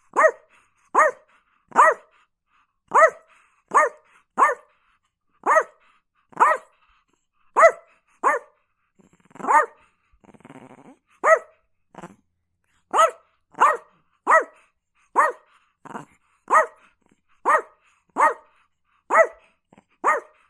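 Chihuahua barking in short, sharp, high-pitched yaps, about one a second, with a brief low growl in a pause about halfway through.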